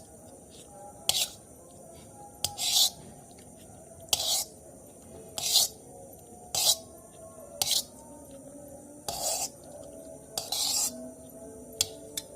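Mukbang eating sounds from a meal of instant noodles and tempe: short, crisp bursts about once a second, with faint background music underneath.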